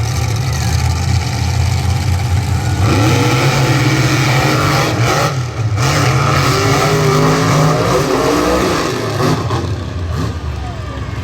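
Monster truck engines revving hard and accelerating in a race. A steady low engine note swells from about three seconds in into loud, rising and falling revs, with a brief drop near the middle.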